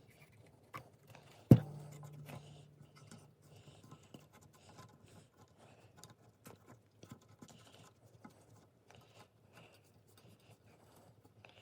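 Hands handling parts on a workbench: one sharp knock about a second and a half in, with a brief low ring after it, then light scratching and small clicks.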